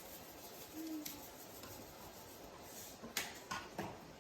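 A few light clicks and taps of kitchen utensils, with a cluster near the end, over a faint steady hiss, and a brief low hum about a second in.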